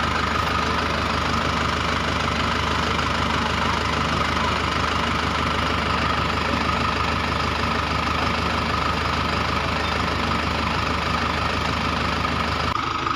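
A motor running steadily, an even mechanical drone with a constant whine.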